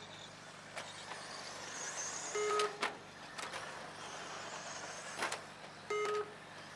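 Electric RC stadium trucks whining around a dirt track, with a few sharp knocks. Three short electronic beeps sound, spaced a few seconds apart, typical of a lap-timing system registering cars crossing the line.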